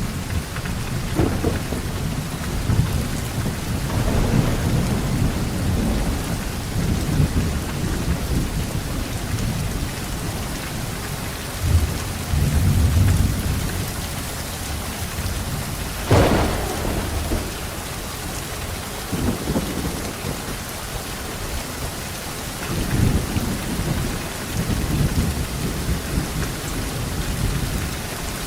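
Thunderstorm: steady heavy rain hiss with rolling low thunder rumbles throughout, and a sharp, close thunder crack about halfway through.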